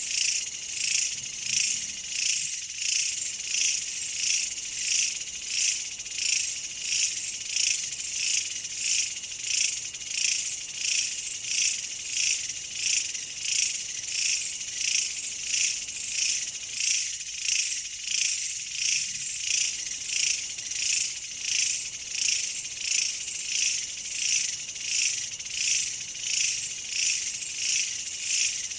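Chorus of insects calling in a steady, even rhythm of high-pitched pulses, a little more than one a second.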